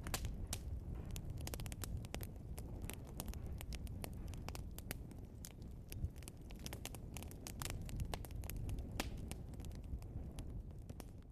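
Burning logs in a fireplace crackling, with many irregular sharp pops and snaps over a steady low rumble of the flames; one louder pop comes about six seconds in.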